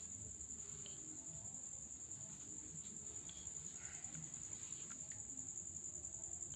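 Steady high-pitched drone of insects chirping continuously, with a few faint small clicks.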